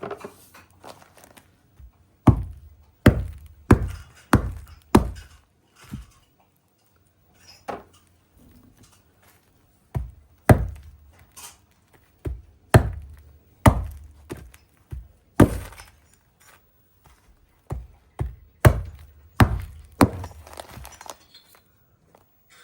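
Pine cones being chopped open: about twenty sharp chopping strikes, in quick runs with a few seconds' pause partway through.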